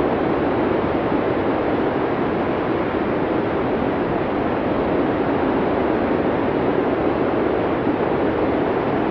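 Blizzard wind blowing in a steady, even rush, deep and muffled, with no gusts or breaks.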